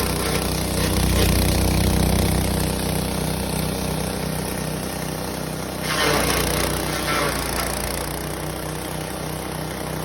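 Engine-driven animal-feed processing machine running steadily with a low, even pulsing hum. About six seconds in it turns louder and rougher for a moment, then settles back.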